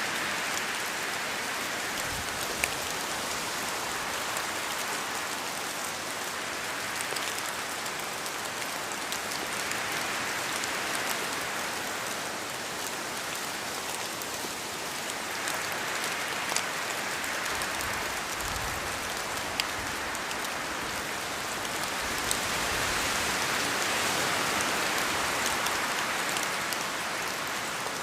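Steady rain falling through forest trees, with scattered louder drops ticking as they fall from the leaves. The rain noise swells a few times, about ten, sixteen and twenty-two seconds in, as gusts of wind move through.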